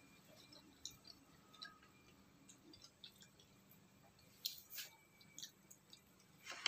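Faint chewing, with small wet mouth clicks and a few sharper ticks between about four and a half and five and a half seconds in.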